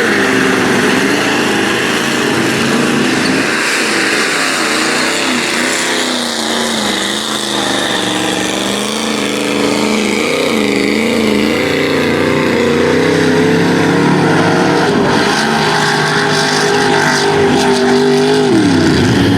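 Big-block V8 engine of a Ford Ranger mud truck running at high revs under hard throttle, its pitch wavering up and down as the revs change. Near the end the revs drop sharply as the throttle is let off.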